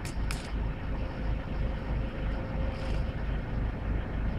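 A vehicle's engine running: a steady low rumble with a faint steady hum over it. A couple of short clicks come right at the start.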